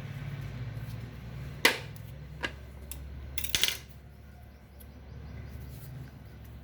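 A few sharp taps of a kitchen utensil on a dish, the first and loudest about a second and a half in and a quick cluster near the middle, over a steady low hum.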